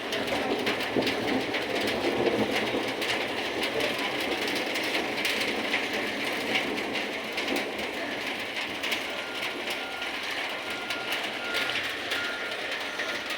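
Heavy rain pouring down, a steady hiss full of small drop ticks, somewhat heavier in the first few seconds.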